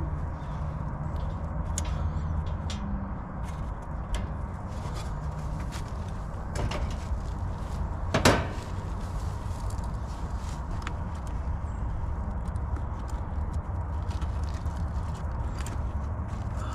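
Light clicks and knocks of hand work, with one sharper knock about eight seconds in, over a steady low hum.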